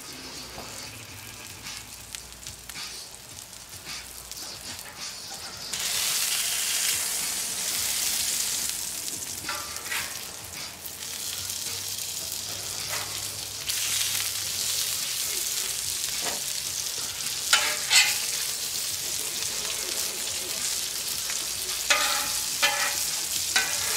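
Beef smash burger patties and chopped onions sizzling on a hot gas flat-top griddle, the hiss getting louder about six seconds in. Near the end a metal spatula scrapes and taps on the steel cooking surface a few times.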